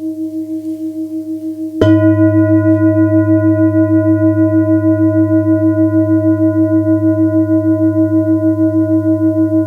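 Singing bowl ringing, then struck again a little under two seconds in. The new tone rings on steadily with several overtones and a regular pulsing waver.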